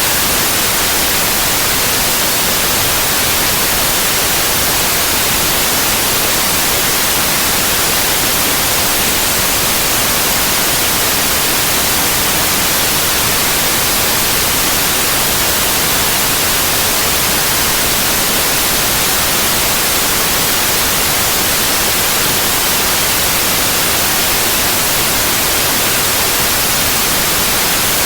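White noise: a steady, even hiss with no changes, brightest in the high range.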